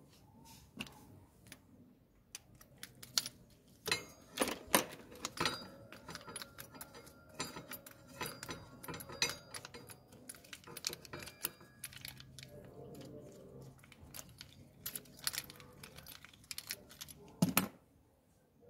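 Irregular metallic clicks and clinks of a hex (Allen) key and small steel parts as the brake pad retaining bolt is undone on a motorcycle's disc brake caliper. The loudest clinks come about four to five seconds in and again near the end.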